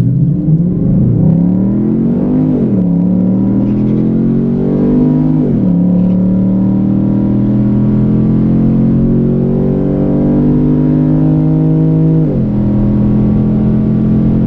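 Stock Chevrolet SS's 6.2-litre V8 at full throttle on a quarter-mile pass, its pitch climbing through each gear and dropping sharply at three upshifts, about 3, 6 and 12 seconds in.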